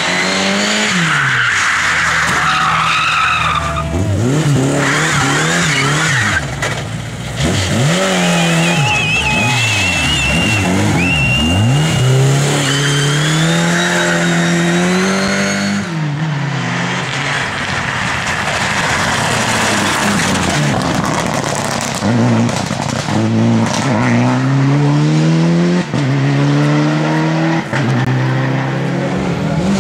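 Rally cars driven hard, engines revving up and dropping again and again through gear changes and corners. Tyres squeal around the middle.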